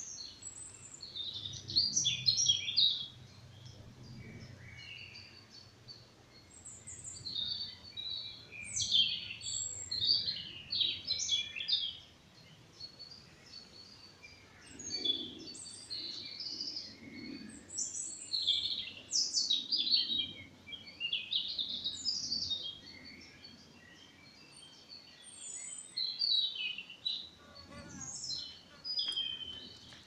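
Songbirds singing, their chirping and warbling phrases coming in clusters with short quieter lulls in between.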